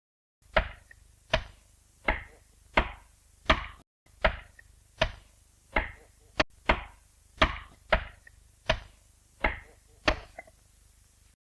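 Axe chopping into the trunk of an oak tree in a steady rhythm, about one blow every three-quarters of a second, each blow a sharp, ringing knock.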